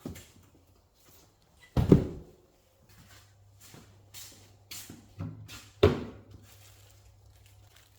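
A series of knocks and clunks, as of parts or tools being handled and set down on a hard surface. The loudest comes about two seconds in and another near six seconds, with lighter knocks between.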